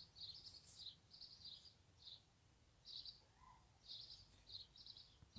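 Faint outdoor quiet with a small bird chirping: short, high chirps repeating irregularly, about two or three a second.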